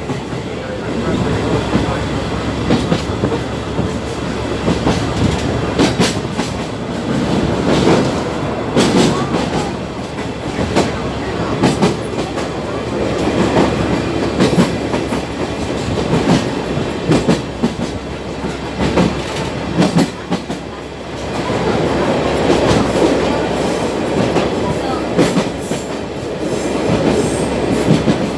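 Sagano trolley train running, heard from on board: the steady rumble of the carriage, with the clickety-clack of wheels over rail joints and sharp clicks scattered throughout.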